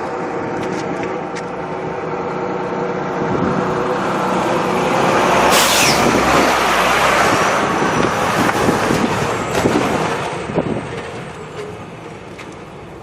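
Jet airliner's engines passing: the roar swells to a peak about halfway through, then fades, with a high whine that slides down in pitch as it goes.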